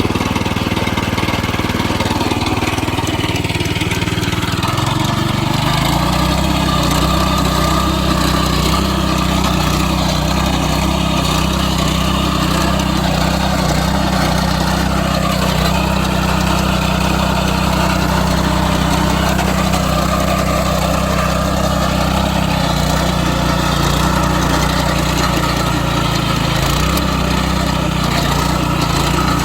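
Small petrol engine of a walk-behind engine weeder running. It speeds up from a lower idle about five seconds in, then runs steadily, with brief dips in speed later on.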